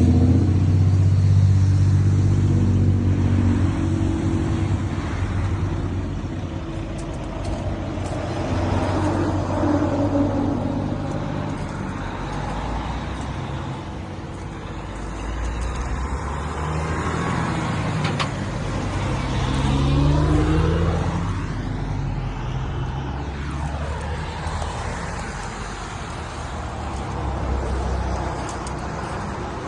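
Motor vehicle engines running amid road traffic, rising and easing in level; about two-thirds of the way through, a vehicle passes with a sweep in pitch.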